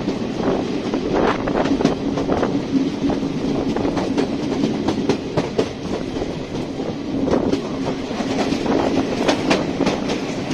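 Passenger train coach running, heard from its window: a steady rumble and hum with wheels clicking irregularly over rail joints (clickety-clack).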